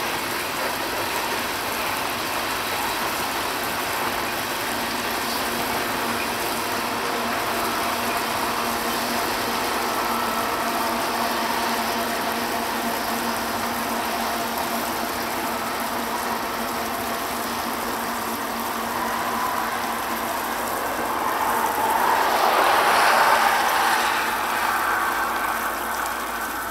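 The last cars of a loaded coal train roll past on the rails and fade off. Near the end a pickup truck drives across the railroad crossing, and this is the loudest moment.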